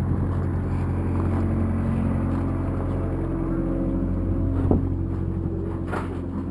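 An engine running steadily with a low hum, with a sharp knock about three-quarters of the way through.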